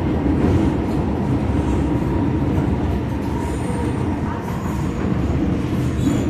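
MTR Kwun Tong Line M-Train running on the track: a steady low rumble with a faint high whine.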